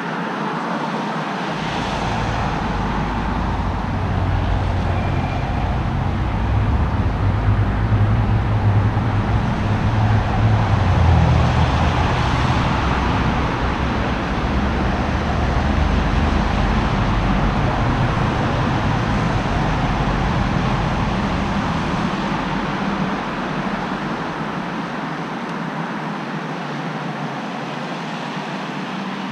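Road traffic noise: a steady hiss with a vehicle's low rumble that comes in shortly after the start, is loudest about ten seconds in, and fades out a few seconds before the end.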